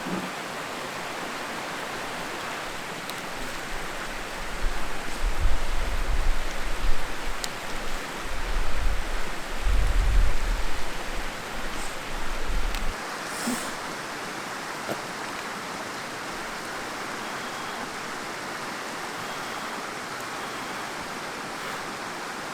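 Mountain stream flowing steadily with an even rushing sound. From a few seconds in until about halfway through, a low irregular rumble rises and falls beneath it.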